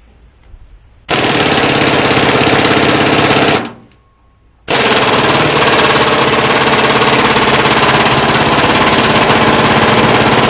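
Pneumatic impact wrench hammering at full power on a seized fastener, in two long bursts: about two and a half seconds, a brief pause, then about six seconds. The fastener is turning only slightly under the hammering.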